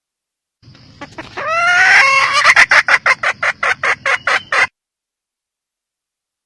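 Female red junglefowl (Gallus gallus) cackling. A few rising calls run into a rapid string of sharp clucks, about five a second, which then stop suddenly.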